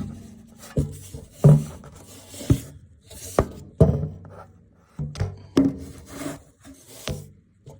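An uneven series of sharp knocks and clicks, some followed by a brief low ring, from metal gas-furnace parts and panels being handled during an inspection.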